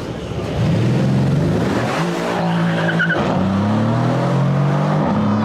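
Loud performance car exhaust as the car accelerates hard. The engine note climbs in pitch, breaks off at a gear change about three seconds in, then climbs again.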